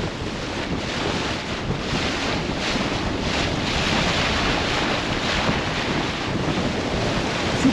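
Strong wind buffeting the microphone over the rush and splash of choppy water against a sailboat moving fast, with louder surges of spray in the middle.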